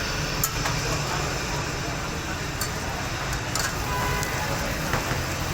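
Busy street-food stall din: a steady low rumble of traffic, background voices, and a few sharp clinks of utensils.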